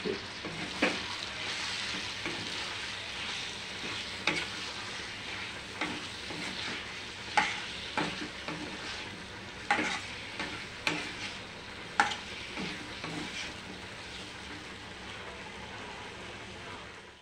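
Vegetables frying and sizzling in a kadai, with chilli powder just added, while a steel ladle stirs them, scraping and knocking against the pan every second or so. The strokes thin out near the end and leave mostly the steady sizzle.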